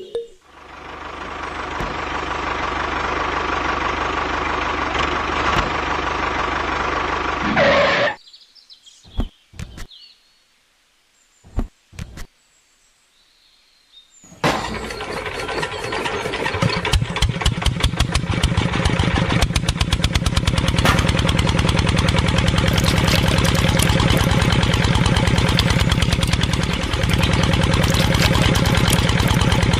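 Small DC motors of a DIY toy tractor and water pump. One runs with a steady hum and cuts off suddenly; after a few seconds of near silence and a few clicks, a motor starts again with a fast rattling whir and keeps running.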